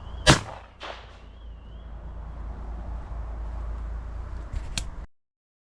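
A shotgun shot, followed about half a second later by a fainter second report, over a low rumble of wind on the microphone. A couple of sharp clicks come near the end, then the sound cuts off suddenly.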